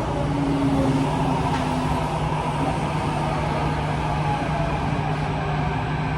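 Interior running noise of a Kawasaki-CRRC Qingdao Sifang T251 metro train: a steady rumble and hum, with faint motor tones stepping lower in the first couple of seconds as it slows into the station.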